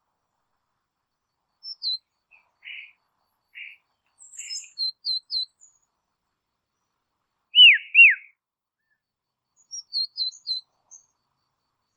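Bird calling: scattered quick high chirps and a few short raspy notes, then two loud down-slurred whistles one after the other, followed by another quick run of high chirps.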